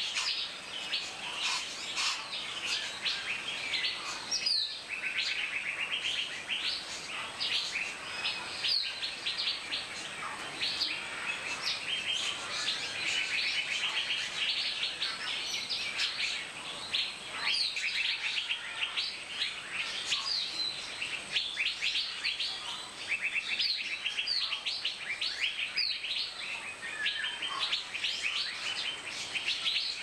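Many birds chirping and calling together, with a quick chattering trill of evenly spaced notes coming back about four times.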